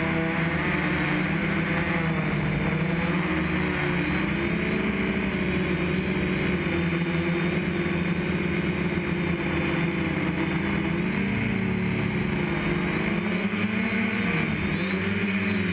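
DJI F550 hexacopter's motors and propellers running in flight, a steady drone whose pitch wavers up and down as the throttle changes.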